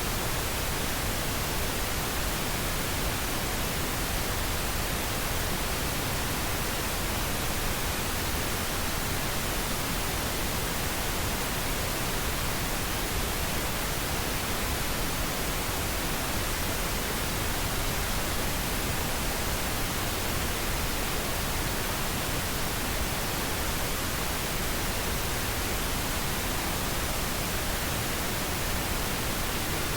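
Steady synthetic noise, an even hiss across all pitches without change, of the pink/white-noise kind used as a study background.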